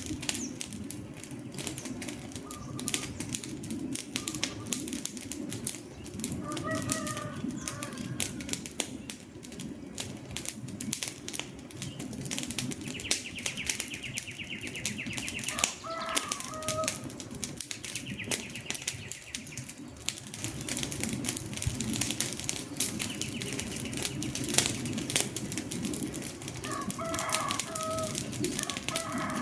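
Wood fire crackling and popping constantly over a low rumble of flames. Birds call in the background: short calls several times, and a rapid trill a few times in the middle.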